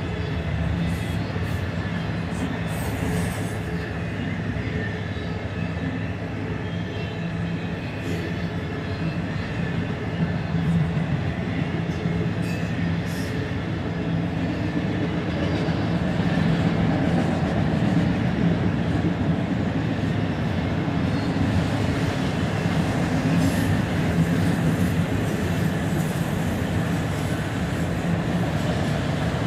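Freight train of autorack cars rolling past steadily, a continuous rumble of wheels on rail with a few brief high squeaks early on, growing slightly louder about halfway through.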